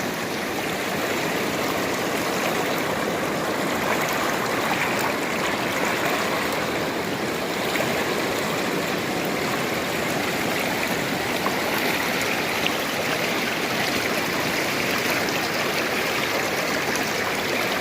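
Fast, high river water rushing steadily, swollen with snowmelt.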